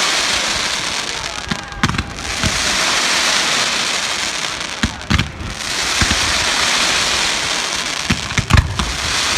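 Fireworks going off. Clusters of sharp bangs come about every three seconds, three times, and each is followed by a couple of seconds of loud crackling hiss.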